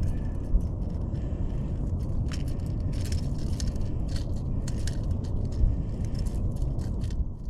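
Wind buffeting the microphone in a steady low rumble, with irregular light clicks and rattles of handling over it.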